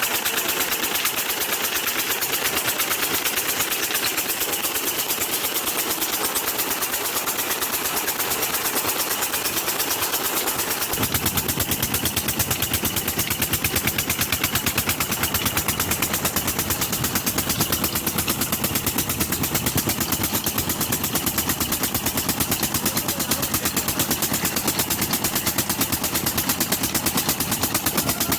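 Petter-type diesel engine of a tube-well pump running steadily after starting, its firing strokes a fast, even, machine-gun-like beat. About eleven seconds in, the sound turns fuller and deeper.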